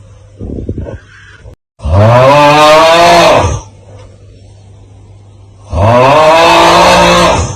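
The 'Aauuggh' meme sound effect: a man's voice giving a long, loud, drawn-out 'aauugh' cry twice, each about two seconds long, its pitch rising and then falling. A short, quieter rasping sound comes about half a second in, and a faint low hum lies underneath.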